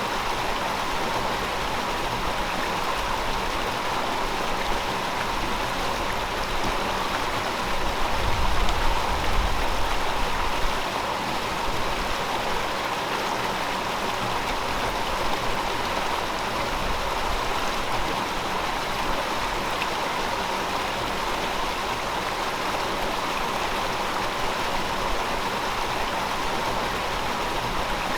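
A river flowing steadily, its rush of water continuous and even. A low rumble swells briefly about eight seconds in and fades by about eleven seconds.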